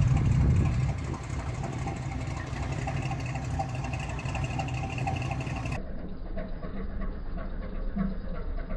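An engine running at idle, steady, loudest in the first second. About two-thirds of the way in the sound changes abruptly to a thinner idle with a faint regular pulse.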